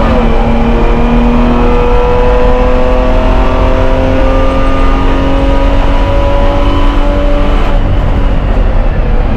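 BMW E30 race car's straight-six engine at full throttle, heard from inside the stripped cabin. A quick upshift right at the start drops the pitch, then the engine note climbs slowly as the car accelerates down a straight, with road and wind noise underneath.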